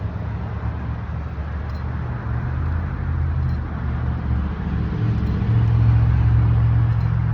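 A steady low rumble that grows louder about five and a half seconds in and eases slightly near the end.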